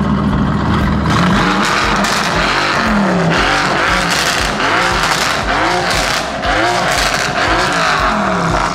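Mercedes-AMG GT S twin-turbo V8 revved while parked: it idles for about a second, then blips repeatedly, rising and falling about once a second, with exhaust crackles between the blips.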